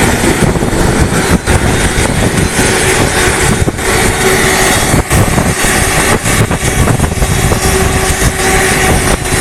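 Propeller aircraft engine running loudly and steadily, under a heavy rushing noise with a faint steady hum.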